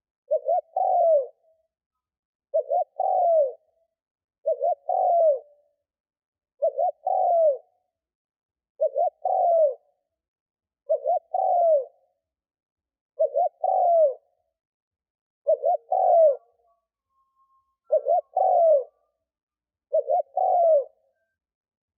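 Spotted dove cooing: a decoy bird's call, repeated about every two seconds. Each phrase has two quick short notes followed by a longer coo that falls in pitch.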